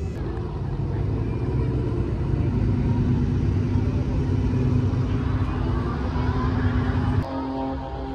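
Car engines running with a steady low rumble. About seven seconds in, the sound changes to a higher, even hum.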